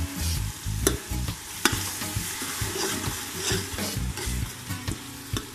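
Onions, tomatoes and garlic–green chilli paste sizzling in hot oil in a metal pot while a metal spoon stirs and scrapes through it. The spoon knocks sharply against the pot twice in the first two seconds.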